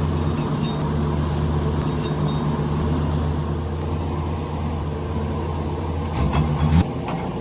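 A machine's motor running steadily with a low, even hum, growing rougher and louder briefly about six seconds in.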